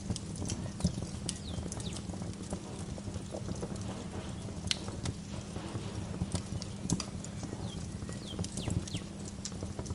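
Wood fire crackling in a fireplace: a steady low rumble of flames under irregular sharp snaps and pops, the loudest about a second in, near the middle and about seven seconds in. Birds give short, high, falling chirps now and then.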